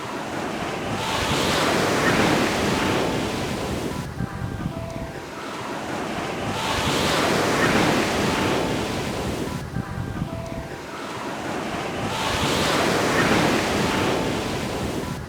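Ocean waves breaking and washing up a beach, the surf swelling and ebbing about every five and a half seconds, three times.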